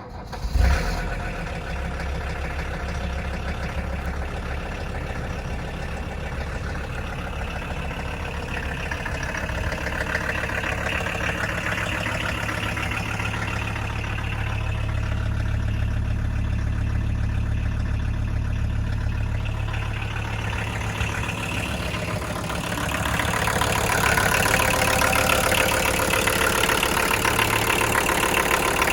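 1980 Audi 5000's diesel engine starting under a second in, then idling steadily with its diesel clatter. It gets louder about 23 seconds in.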